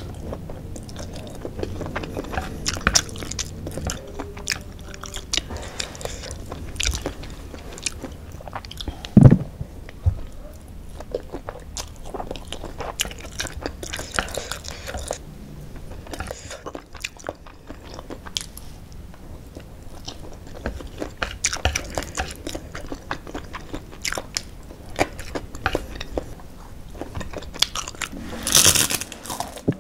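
Close-up mouth sounds of someone eating spicy fried noodles: biting and crunchy chewing with many small wet clicks. A sharp knock comes about nine seconds in, and a louder rustling burst comes near the end.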